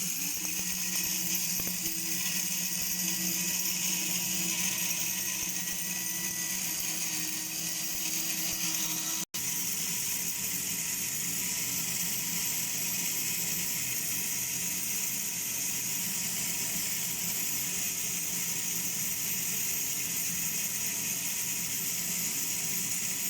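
Meccano model tractor's motor running its three-speed gearbox and differential, a steady whirring whine of meshing gears. The sound cuts out for an instant about nine seconds in, and the whine's pitch changes after it.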